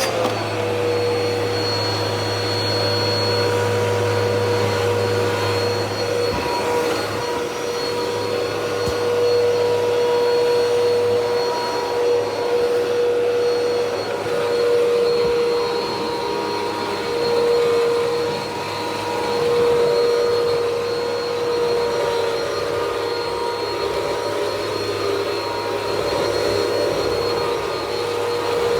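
Bissell PowerLifter vacuum cleaner running steadily during a suction check, its motor giving a constant whine with a high-pitched note above it. Between about 12 and 22 seconds in, the pitch and loudness waver somewhat.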